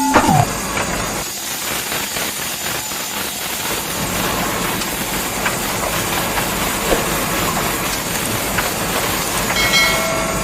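A small electric-motor machine running with a continuous rattling grind. Its whine drops sharply in pitch right at the start, as if slowing under load.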